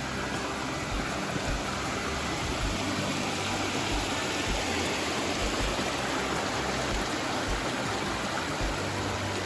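Rushing water, a steady, even hiss that holds throughout.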